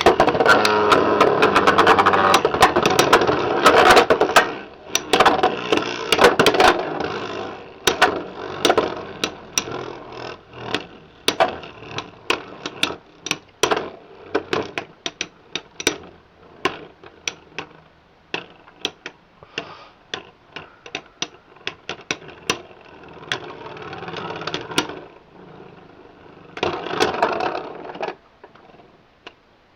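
Two Beyblade X spinning tops, Yell Kong and Stun Medusa 760 Dot, battling in a plastic stadium. The first few seconds are a dense grinding whir; after that come many sharp clicks as the tops strike each other and the stadium, growing sparser over time, with a short whir again twice near the end.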